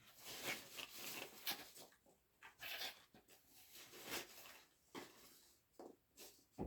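Faint, irregular rustling and crinkling of packaging and loose packing material as items are put back into a box.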